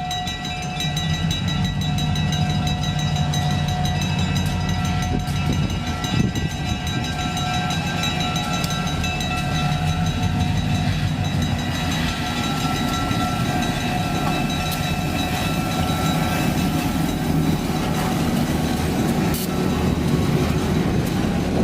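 Freight cars of a train rolling past at a grade crossing: a steady low rumble of wheels on rail, with several steady high ringing tones above it and an occasional clank.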